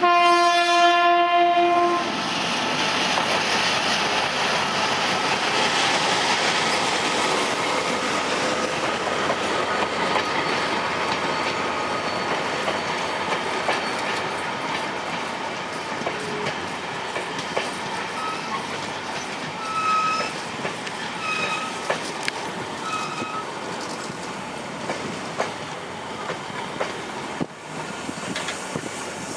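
GT22 diesel-electric locomotive sounding its horn once for about two seconds, then running in with its train, cars clattering over the rail joints. A few short high squeals in the last third as it slows on arrival.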